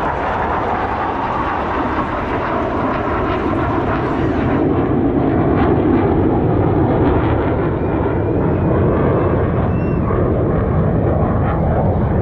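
Blue Angels F/A-18 Super Hornet jet engines making loud, steady jet noise, swelling a little around the middle.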